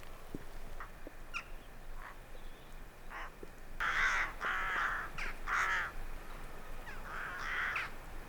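Birds calling outdoors: a few short calls, then a louder run of several calls in quick succession in the middle, and a few more near the end.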